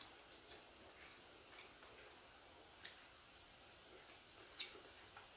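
Faint eating sounds: quiet chewing, with two sharp mouth clicks, about three seconds and four and a half seconds in.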